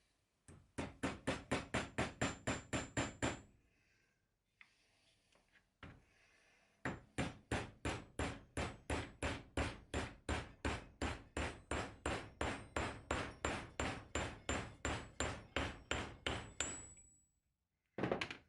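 A hammer striking metal in quick, even blows, about four a second, each with a high ring. A short run of a dozen or so blows comes first, then after a pause a longer run of about forty that fades away, and a brief knock comes near the end.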